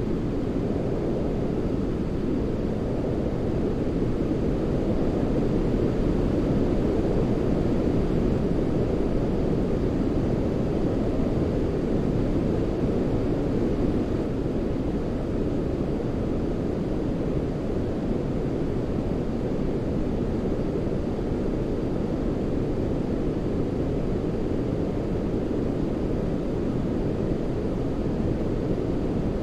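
Continuous sleep-aid white noise, weighted toward the low end so it sounds like a deep, even rush (close to brown noise). It swells slightly a few seconds in and settles back.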